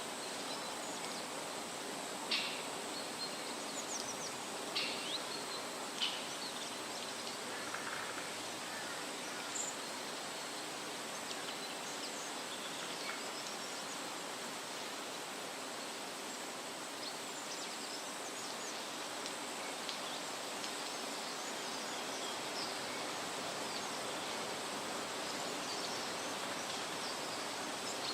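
Steady rustle of wind through tree leaves, with a few short, high bird chirps in the first ten seconds or so.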